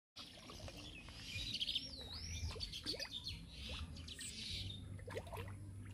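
Birds chirping and calling, with a warbling whistle about two seconds in and several quick falling notes, over a low steady hum.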